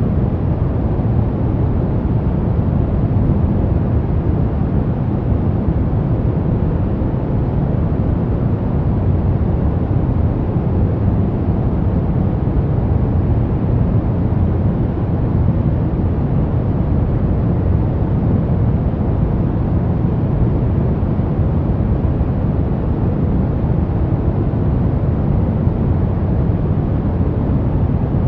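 Steady pink noise: an even hiss with most of its weight in the low end, constant in level throughout.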